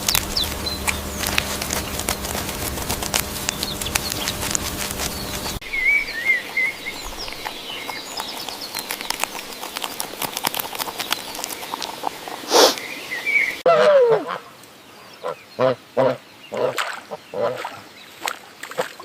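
Animal recordings edited back to back: first a dense patter of clicks over a steady hum, then scattered bird chirps with one loud sharp burst, then a run of short repeated calls, about two to three a second.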